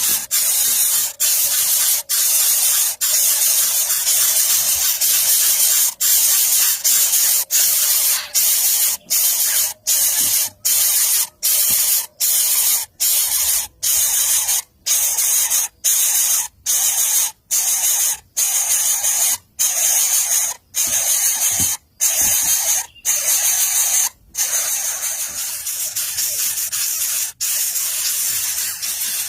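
Loud, steady hiss broken by short silent gaps, at first about once a second and then about twice a second, stopping near the end when the hiss continues unbroken and slightly softer.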